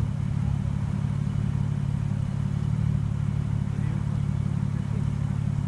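A vehicle engine running steadily close by, a constant low drone that does not fade as the car in view drives away.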